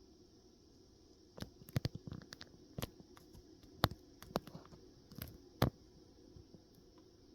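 A series of irregular sharp clicks and taps, about a dozen, bunched between about one and a half and six seconds in, over a faint steady background.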